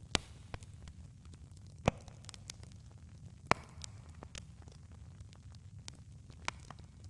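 Campfire crackling: irregular sharp pops and snaps of burning wood over a low steady rumble, with three louder pops, one just after the start, one about two seconds in and one about three and a half seconds in.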